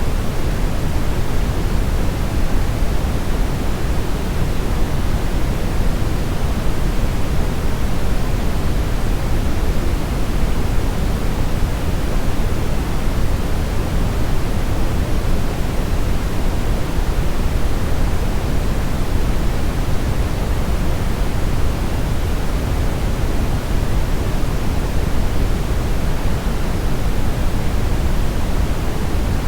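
Steady brown noise: an even, deep rumbling hiss, strongest in the bass and thinning toward the treble, with no change throughout.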